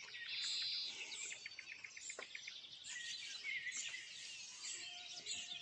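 Dawn chorus of songbirds with nightingales singing: several birds overlapping in whistles, trills and a fast run of repeated clicking notes.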